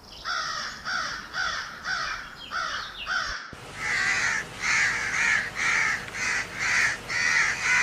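Crow cawing in repeated series, about two caws a second. A cut at about three and a half seconds leads into a second, louder run of caws.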